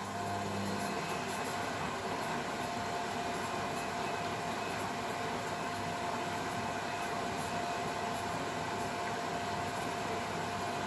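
Beko WML 51211 EL+ washing machine running: a steady whir with a constant high whine over it.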